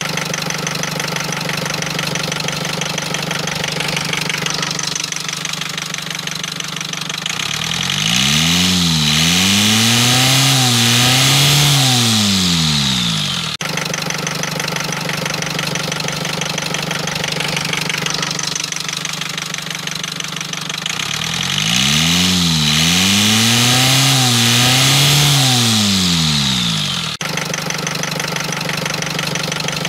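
Rover 25 diesel engine idling, then revved twice, each rev climbing, dipping briefly, climbing again and falling back to idle. The running is meant to show an abnormal engine noise.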